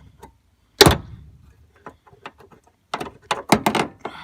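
Hammer blows on the stuck door hinge pin of a GM truck: one hard strike about a second in, a few light taps, then a quick run of several strikes near the end. The pin is seized in its hinge.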